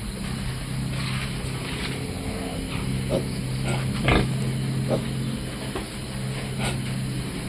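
Piglets grunting and squealing in short, scattered calls, the loudest about four seconds in, over a steady low hum.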